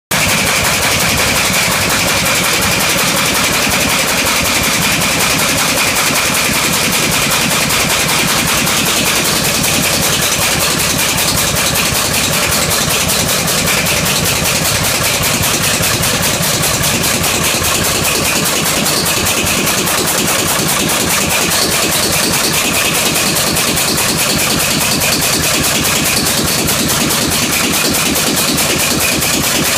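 Atlas Imperial diesel engine running with a steady, rapid, even clatter of firing strokes and a faint steady high whine; its throttle valve is stuck.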